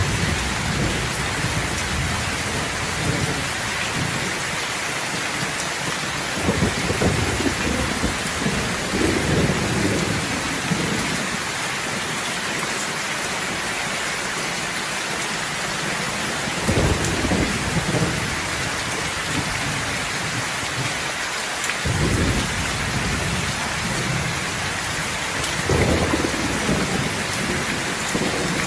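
Thunderstorm: steady rain hissing throughout, with rolls of thunder rumbling low several times, the longest about a quarter of the way in.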